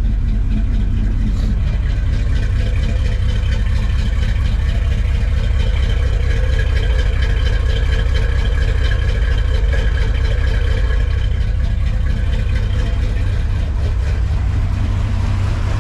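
1970 Dodge D100 pickup's engine idling steadily just after a cold start.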